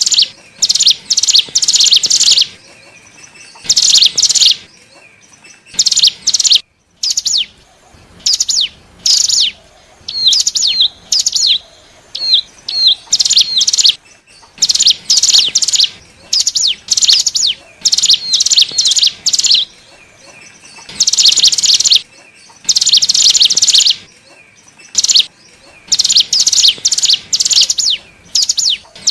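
Cigun (ciblek gunung) singing a lure song: loud, rapid bouts of high, sharp chirps, each burst about a second long with short pauses between, some notes ending in a quick upward hook.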